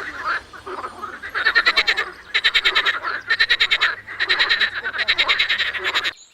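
Frog calling: about five quick trains of rapid pulsed croaks, each lasting around half a second, with a softer call before them. The sound stops abruptly near the end.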